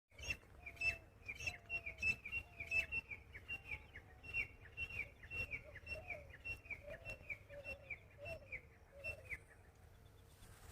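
A bird chirping in a fast series, about two or three short falling chirps a second, with fainter, lower calls underneath; the chirping stops shortly before the end.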